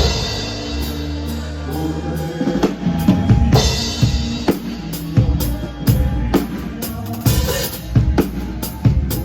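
Live band music without singing: a drum kit keeps a steady beat of kick and snare hits over a bass line.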